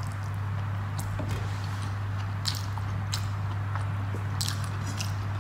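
Close chewing and mouth sounds of a person eating rice with fried bitter gourd and pumpkin by hand, with scattered small wet clicks. A steady low hum runs underneath.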